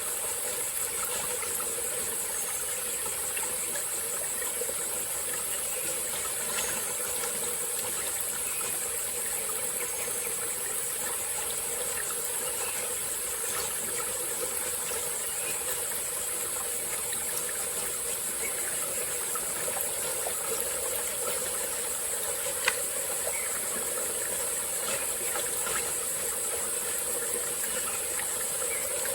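Small tropical-forest stream flowing and trickling, under a steady high-pitched drone of insects. A single sharp click about two-thirds of the way through.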